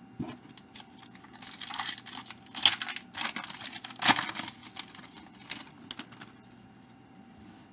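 Crinkling and tearing of a trading-card pack wrapper being torn open by hand, a run of rustles with two sharper rips in the middle.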